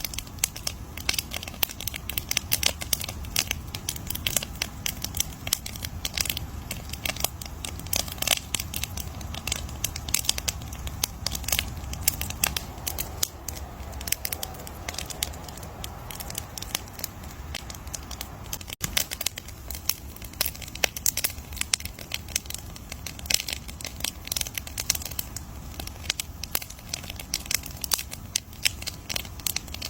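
Campfire burning with dense, irregular crackles and pops of burning wood over a low steady rumble of flames.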